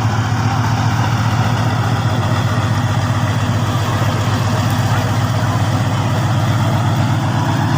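Engine of a Mahakam river taxi cargo boat running steadily with a low, even drone.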